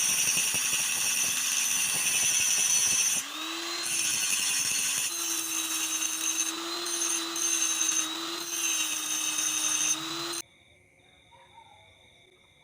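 Electric power tool running under load, a steady motor tone under a loud gritty hiss. It dips briefly about three seconds in, picks up again, and cuts off suddenly near the end.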